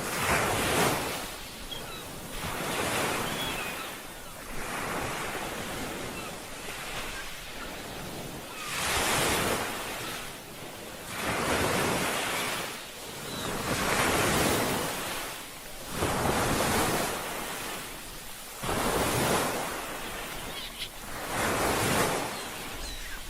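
Ocean surf: waves breaking and washing in, swelling and falling back in repeated surges every two to three seconds.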